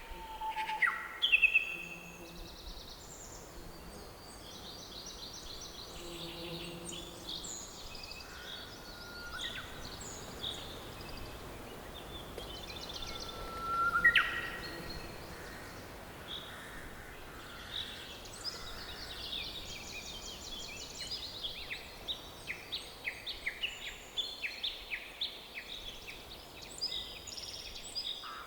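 Several songbirds singing and chirping over a faint steady forest background hiss. One loud call sweeps upward about halfway through, and the second half fills with quick runs of chirps and trills.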